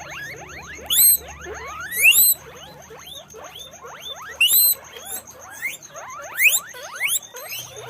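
Several guinea pigs squeaking: many short, overlapping squeaks, each rising in pitch, several a second.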